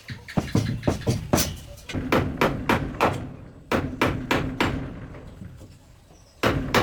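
Rapid series of hard knocks, about two to three a second, in runs broken by short pauses, with a loud new run starting near the end.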